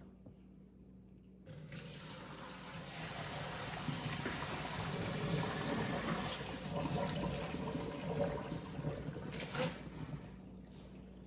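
Hot pasta water and noodles being poured from a pot into a colander in the sink, a steady splashing rush that starts about a second and a half in and stops near the end.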